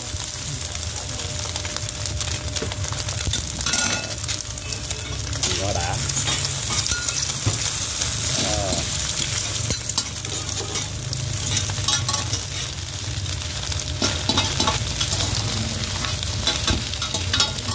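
Bột chiên (rice-flour cake cubes) and freshly added eggs sizzling steadily in oil on a large black pan. A metal spatula scrapes and clicks against the pan as the cubes and egg are turned.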